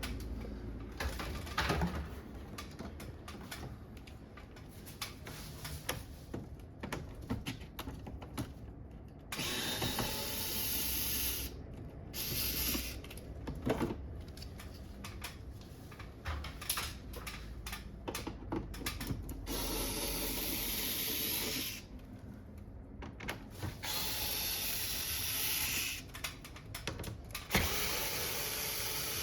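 Cordless power screwdriver running in short spells of a couple of seconds while screws are taken out of an air conditioner, between plastic clicks and knocks as the casing and parts are handled.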